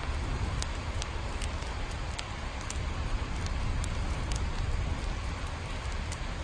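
Steady rain with scattered single drops ticking sharply, about one or two a second, over a continuous low rumble.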